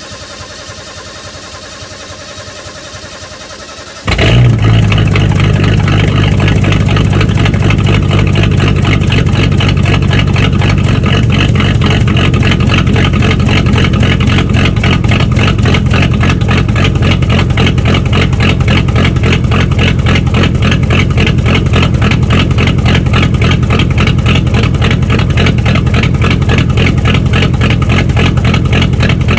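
1974 Ford F-250's 4.9-litre (300 cu in) inline-six being cold-started at 19 °F after a week of sitting, with no pedal pumping and no choke: it cranks for about four seconds, then catches suddenly and runs loudly and steadily through a straight-piped exhaust.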